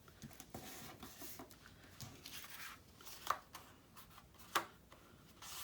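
Paper and card pieces being handled and shifted on a craft table, soft rustling with two sharp taps or clicks a little over a second apart.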